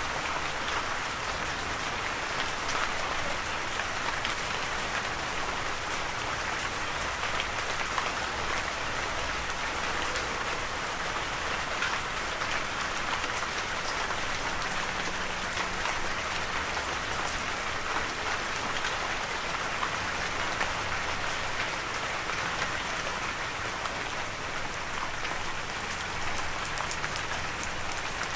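Steady rain falling, an even hiss with scattered small drop taps.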